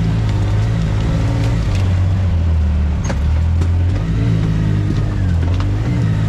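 An off-road vehicle's engine running steadily while driving along a rough trail, its pitch rising and falling a little with the throttle. Scattered knocks and rattles from the bumpy ground come through, with one sharper knock about three seconds in.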